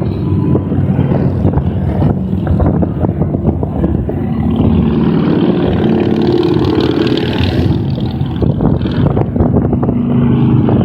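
A stream of motorcycles riding past on a highway, several engines running at once with their tones overlapping, swelling in the middle as more bikes pass close by.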